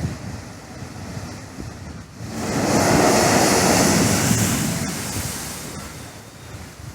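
Sea waves surging in and breaking against rocks: the rush of surf swells about two seconds in, peaks for a second or two, then ebbs away. Wind rumbles on the microphone throughout.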